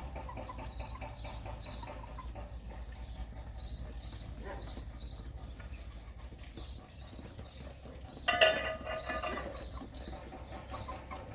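Animal sounds: high chirps repeating in short rapid groups, with one louder pitched call about eight seconds in.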